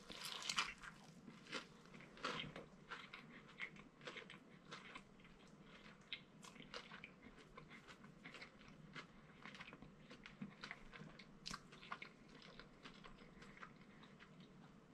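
A bite into a fried chicken sandwich on a brioche bun, loudest in the first second, then quiet chewing with many short, faint crisp clicks.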